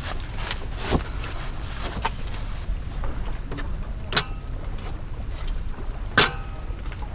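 Strong wind rumbling steadily on the microphone, with a few sharp knocks and clinks of camp gear being handled. The two loudest clinks, about four and six seconds in, ring briefly.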